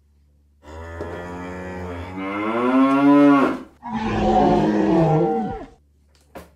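Electronic dinosaur roar from a Jurassic World Dominion Giganotosaurus toy's built-in speaker: two long roars back to back, the first climbing in pitch before cutting off, the second sinking at its end.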